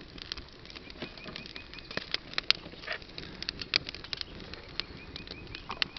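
Dry twigs crackling in a dense, irregular run of sharp clicks. A bird sings twice, each time a quick run of evenly repeated high notes, once about a second in and again near the end.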